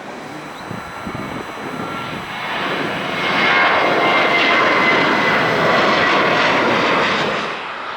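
Jet airliner engines, growing louder about a third of the way in, holding a loud steady rush with a high whine for several seconds, then dropping back near the end.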